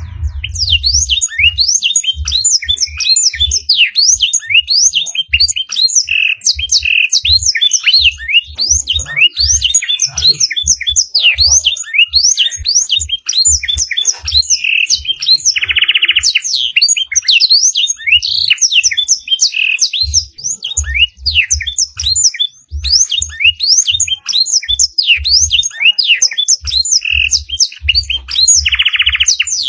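Canary singing a long, unbroken, fast twittering song of blackthroat-style phrases, with rapid chirps and sweeps and a couple of buzzy trills, one about halfway through and one near the end. Short low thumps come irregularly underneath.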